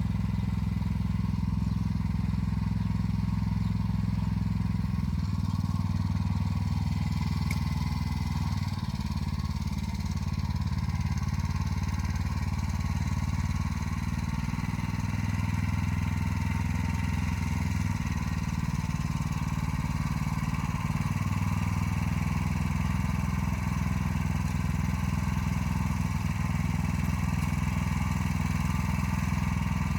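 Motor Sich walk-behind tractor's engine running steadily under load, pulling an arrow-type hiller through the soil while hilling rows, its pitch and level shifting slightly now and then.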